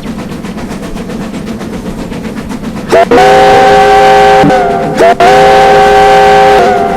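Steam locomotive working with a quick, even run of exhaust beats. About three seconds in its chime whistle cuts in very loud, a chord of several steady notes sounded in long blasts with brief breaks between them.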